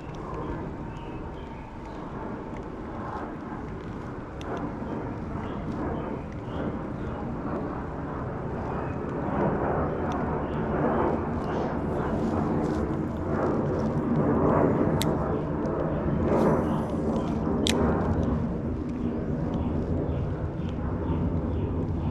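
A motor's steady drone, growing gradually louder, with a couple of sharp clicks near the end.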